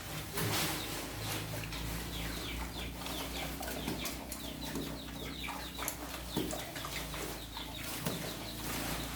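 Farm animals calling, with many short high chirps over a low steady hum.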